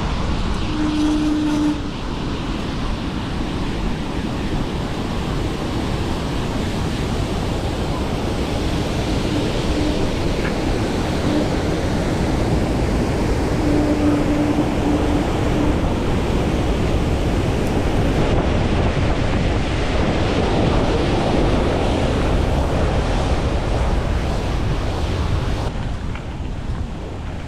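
Waterfall roaring: a steady rush of falling water that swells through the middle and eases a little near the end, with wind buffeting the microphone.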